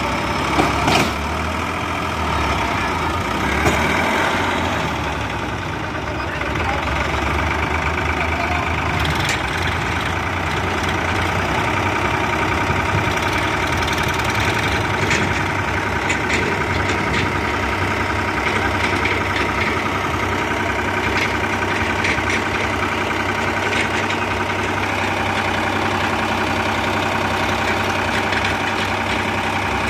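Diesel tractor engine running steadily at a low, even speed, with a couple of brief knocks near the start.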